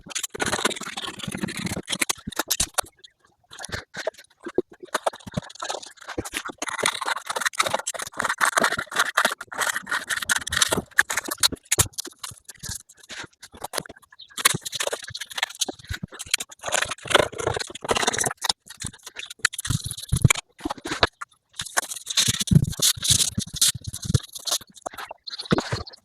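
Irregular rattling, scraping and knocking of hands-on work as carpet insulation tiles are handled and pressed onto the cabin lining with contact spray adhesive.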